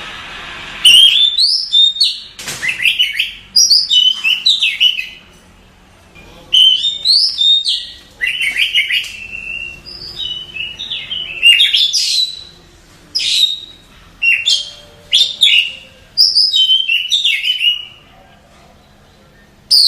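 Oriental magpie-robin (kacer) song: loud bursts of rapid, varied whistles and chirps, each phrase lasting a second or two, separated by short pauses.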